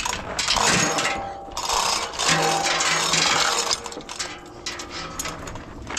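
Battery power tool spinning in short bursts of about a second each, with metal clatter between them, as bolts are run off during an engine removal.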